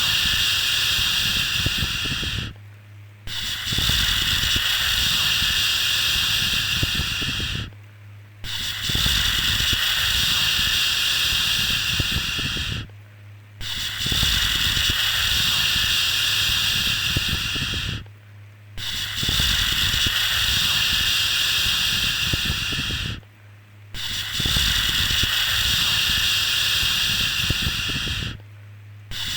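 A soothing "shhh" shushing sound for settling a baby to sleep, repeated in long even strokes of about four and a half seconds, each followed by a brief pause. A faint steady low hum runs underneath.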